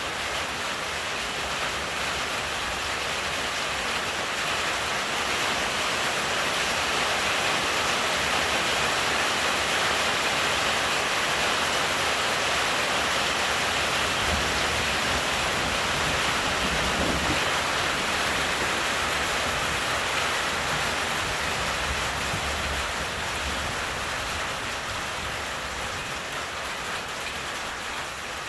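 Heavy thunderstorm rain pouring steadily, swelling in the middle and easing a little toward the end, with a faint low rumble about halfway through.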